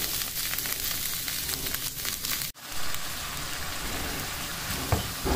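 Chicken mince sizzling steadily as it fries in oil in a nonstick pan. The sound cuts out for an instant about halfway, and there are a few soft knocks near the end.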